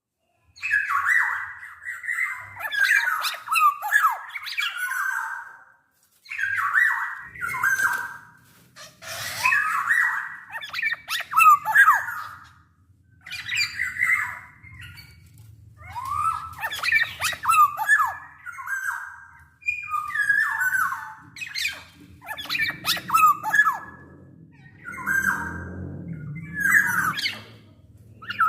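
Black-naped oriole (kepodang) singing: short repeated phrases of gliding whistled notes mixed with harsh, scratchy notes, a new phrase every second or two. A low hum runs underneath from about seven seconds in, strongest near the end.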